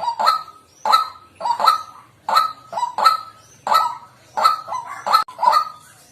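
White-breasted waterhen calling: a steady series of loud, harsh 'kwak' notes, often in pairs, about three or four notes a second.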